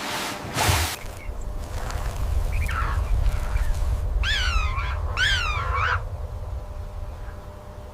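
An animal calling twice in quick succession, each call a harsh run of falling notes, over a steady low rumble. A short burst of noise comes just before the calls, about half a second in.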